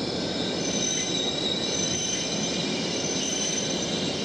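Shinkansen train moving slowly through the station: a steady low rumble with several high-pitched squealing tones held over it.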